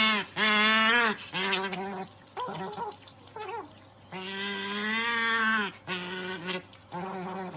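An otter calling over and over to beg for a snack: a run of short, steady-pitched calls with one long call about four seconds in.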